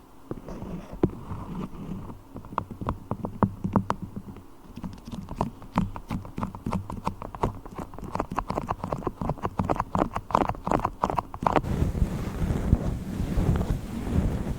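Sticky clicks and taps of beeswax being handled right at the microphone, sparse at first and then coming faster and denser. About three-quarters of the way through they stop abruptly and give way to a steady, muffled rubbing of a fluffy microphone cover on the mic.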